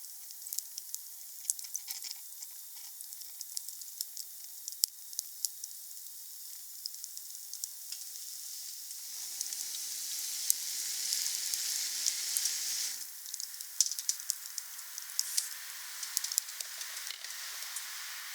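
Wood campfire burning, crackling with frequent sharp pops over a steady hiss. About nine seconds in a louder rushing hiss swells for about four seconds, then cuts off suddenly.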